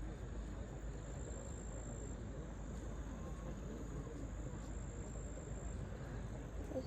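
Steady high-pitched trill of night insects, a single unbroken tone, over a faint low rumble.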